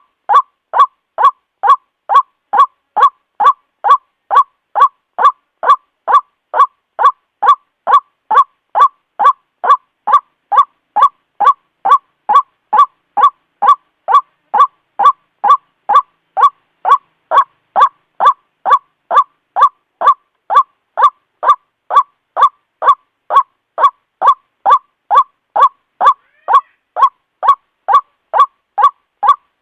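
White-breasted waterhen calling: a monotonous run of short, identical notes repeated evenly about twice a second without a break.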